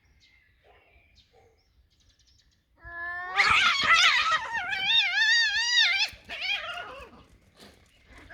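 A cat yowling: one long, loud, wavering cry that rises at its start about three seconds in, warbles for about three seconds and trails off in shorter wails, the threat call of a cat in a territorial standoff.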